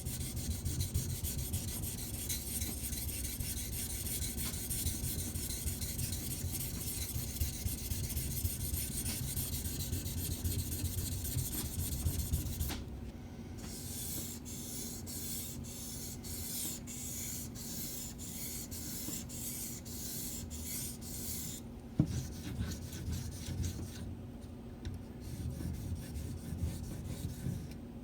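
Knife blade being stroked across a Shapton Pro waterstone, a rasping grind. It runs continuously for about the first half, then breaks into separate quicker strokes, about two a second, with a single sharp knock past the middle.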